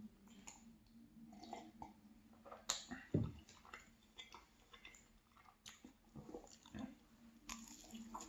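Close chewing of a pastry: soft mouth clicks and smacks, with a louder low thump about three seconds in.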